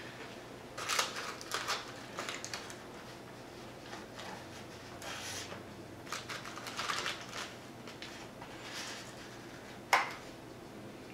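Close-up chewing and crunching of crispy fried chicken wings in short crackly bursts, with rustling as fingers pick through the paper-lined takeout tray. A single sharp click about ten seconds in is the loudest sound.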